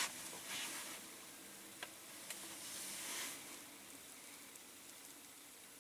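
Caustic soda bath fizzing faintly as it reacts with a zinc-alloy diecast van body and strips the paint, with a few light clicks.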